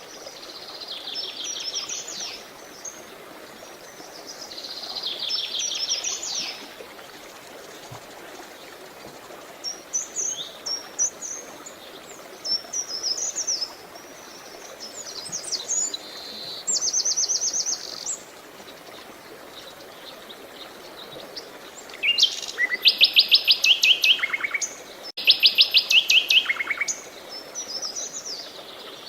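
Songbirds singing in repeated phrases, several of them fast, buzzy trills. The song runs over a steady rush of running water. The loudest phrases are two rapid trills about three-quarters of the way in.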